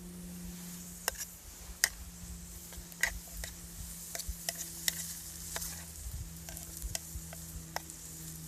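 Food frying in hot oil in a pan on a Trangia spirit stove: a steady sizzle broken by many irregular sharp pops and spatters.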